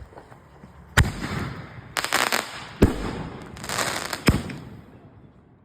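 Fireworks going off from launch tubes: three sharp bangs about a second and a half apart, with crackling between them.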